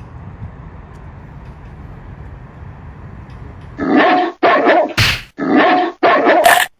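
Goose honking loudly at close range: four harsh calls in quick succession starting about four seconds in, each cut off sharply, with a couple of sharp cracks among them, as the goose goes on the attack.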